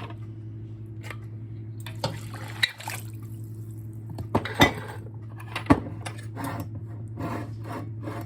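A glass jar of homemade chicken broth being worked open: sharp clinks and knocks on the lid and glass, then a quick run of short scraping, rubbing strokes as the lid is forced. A steady low hum runs underneath.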